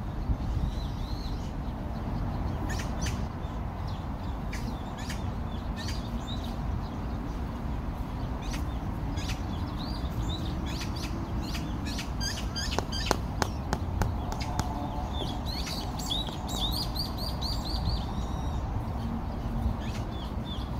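Small birds chirping, with a quick run of repeated notes near the end, over a steady low background noise. A few sharp clinks of clay bricks being set in place come a little past the middle.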